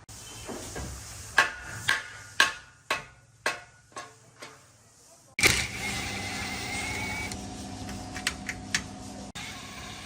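About six sharp knocks, roughly two a second, as the old window is worked loose, then a small electric power tool starts abruptly a little past halfway and runs steadily with a thin whine, a few clicks over it.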